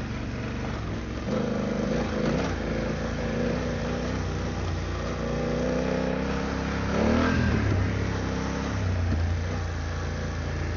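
BMW F900GS parallel-twin engine running under throttle off-road, its revs rising and falling as the rider works the throttle, with a quick rev rise about seven seconds in, over a steady rush of wind and tyre noise.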